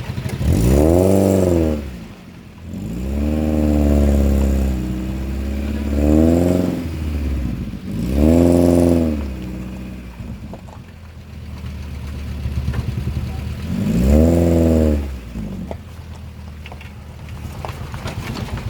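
Off-road 4x4's engine revved hard in about five bursts, pitch climbing and falling each time, as the vehicle is driven under load through a difficult stretch.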